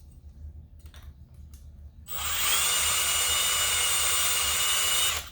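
Handheld drill starts about two seconds in and runs for about three seconds with a steady high whine, then stops abruptly: a drill bit cutting aluminium out of an engine flywheel's heavy side to balance it. A few light clicks come before it.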